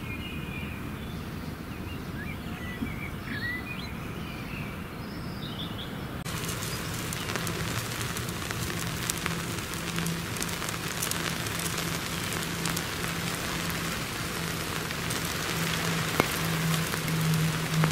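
A few birds chirping over a soft outdoor background, then about six seconds in a dense, steady patter of rain takes over, with a low steady hum underneath.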